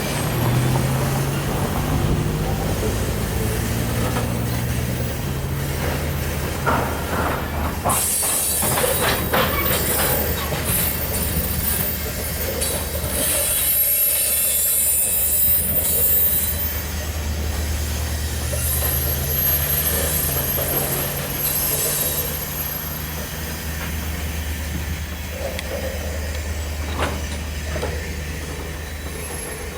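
Norfolk Southern diesel-hauled train on the move: steady low locomotive engine hum, wheels clicking over rail joints, and a high wheel squeal from about eight seconds in that fades by about seventeen seconds.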